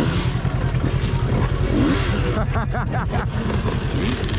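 Dirt bike engine running under riding, its revs rising and falling several times in quick succession about halfway through, over a heavy low rumble.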